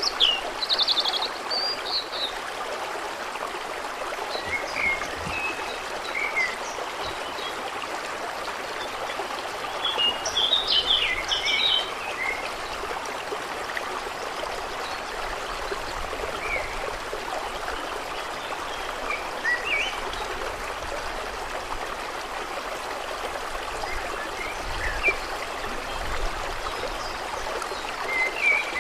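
Steady rush of running water, with small birds chirping on and off over it, most busily at the start and again about ten to twelve seconds in.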